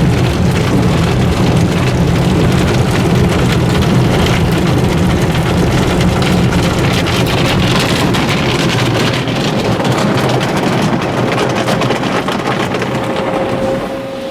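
Water spray and the cloth brushes of a D&S Odyssey soft-touch automatic car wash scrubbing over a car, heard from inside the cabin as a loud, steady, rain-like wash with a low rumble. The rumble fades near the end.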